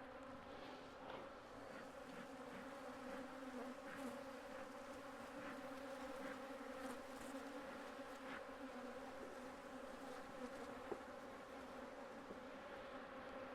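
Many honeybees buzzing around hives being worked, a steady droning hum of disturbed bees. A few faint ticks come through, one sharper than the rest about eleven seconds in.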